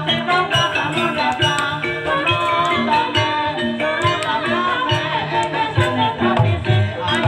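Live Javanese gamelan music in campursari tuning, accompanying an ebeg dance: a dense pattern of struck metal notes over steady low drum strokes.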